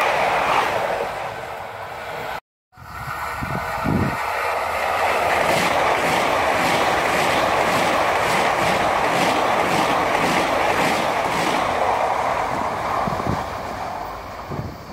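RENFE electric commuter trains passing at speed close by: a steady rush of wheel and rail noise with regular clacks from the wheels. It cuts out abruptly about two and a half seconds in, then a second train passes and fades near the end as it draws away.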